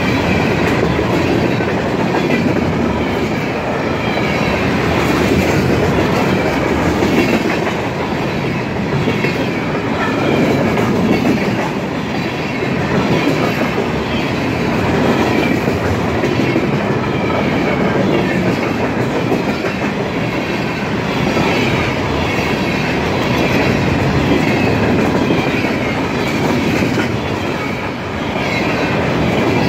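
Freight train's gondola cars passing close at speed: a steady loud rumble and rapid clatter of steel wheels on the rails.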